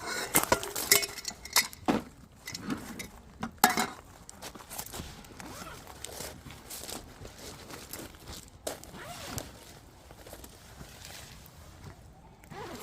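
Burning firewood crackling and popping, with a cluster of loud sharp snaps in the first few seconds, then sparser, quieter crackles.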